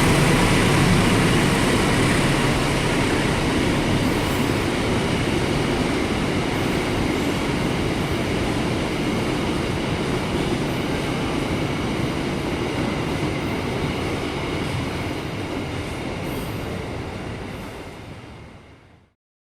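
Fuel tank-wagon freight train rolling past on the rails, a steady rolling rumble of wheels and wagons. It slowly grows quieter, then fades out sharply near the end.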